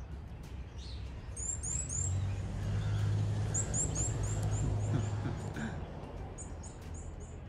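Small birds chirping in quick runs of high, falling notes. A low steady hum swells in about two seconds in and fades out after about five seconds, and is the loudest sound in that stretch.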